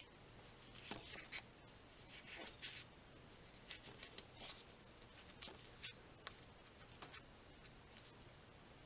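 Faint, irregular rustling and scratching as polyester fiberfill is pushed and worked into a headphone ear cushion with a stick.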